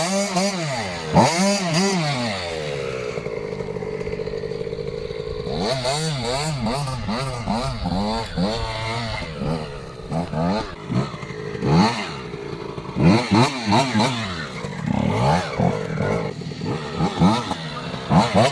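KTM 85 SX two-stroke motocross engine revving up and down again and again. It holds a steadier note for a couple of seconds, then goes through a run of quick throttle blips that rise and fall.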